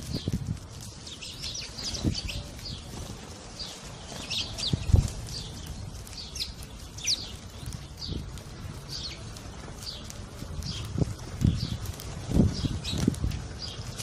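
Small birds chirping: short, high, downward-sliding chirps about one or two a second, over occasional low thumps, the loudest about five seconds in.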